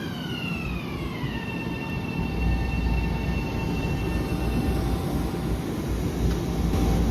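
Long Island Rail Road electric train's high motor whine gliding down in pitch, then holding steady, over the low rumble of the train on the track.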